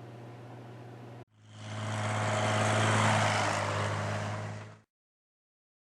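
An engine running at a steady speed, swelling up and then fading away.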